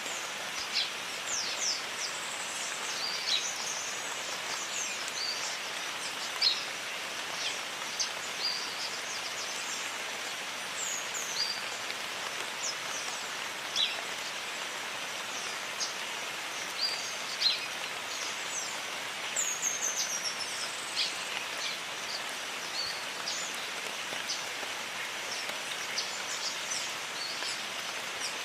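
Jungle rain falling steadily as an even hiss, with many short, high bird chirps scattered throughout.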